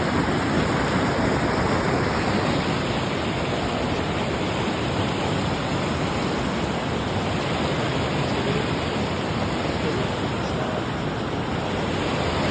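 Steady rush of river water, an even noise without breaks or changes.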